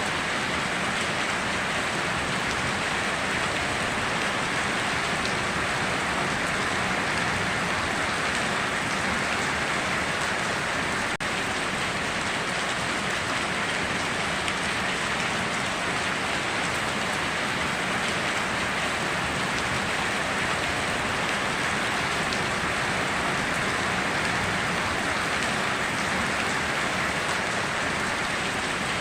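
Steady heavy rain falling on surfaces, a dense continuous patter that stays even throughout.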